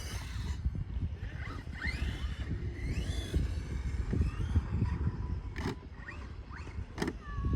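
Electric motor of a Losi RC motorcycle whining in short rising revs over a steady low rumble, with two sharp clicks near the end.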